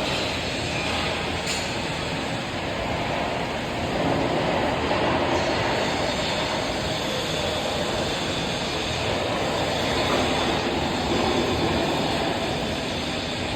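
Electric arc welding on thick iron: the arc runs as a steady, unbroken noise with no pauses.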